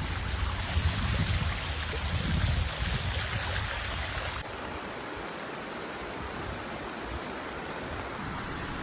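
Rushing floodwater, a steady noise heard across spliced clips, with a deep, uneven rumble in the first four seconds or so.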